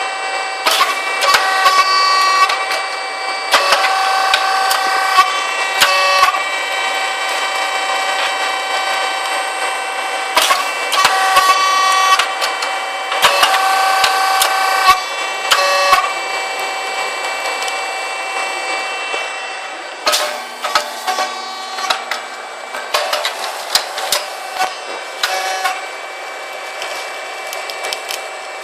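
Puffed rice cake (popping) machine running: a steady mechanical whine of several high tones, with repeated groups of sharp pops and clicks as the machine cycles.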